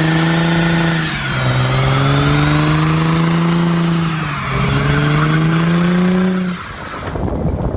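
Car engine accelerating hard through the gears. Its pitch climbs, drops at an upshift about a second in and again around four seconds, climbs again each time, then falls off as the throttle is lifted near the end.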